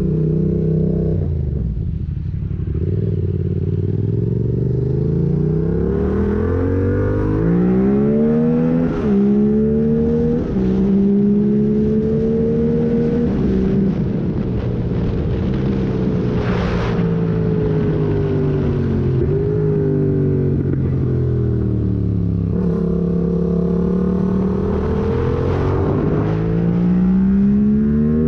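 Yamaha MT-07's parallel-twin engine through a full MIVV exhaust with the catalyst removed and no dB killer, revving hard with its pitch climbing, dropping sharply at quick upshifts about nine and ten and a half seconds in. It then falls away slowly on a closed throttle for several seconds and climbs again under full throttle near the end.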